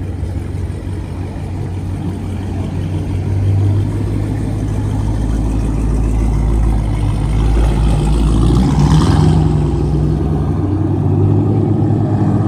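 Car engine running close by, steady and low, getting louder through the middle, with a short rush of noise about nine seconds in.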